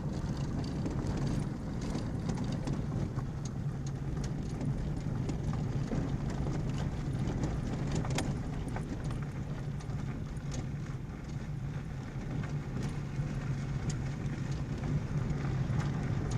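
Vehicle driving slowly along a rough forest track: a steady low engine hum with irregular ticks and knocks from stones and gravel under the wheels.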